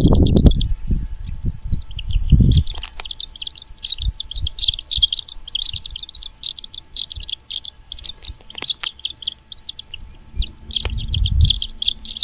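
Birds chirping in a rapid, continuous run of short high-pitched notes, with low rumbling noise in the first couple of seconds and again near the end.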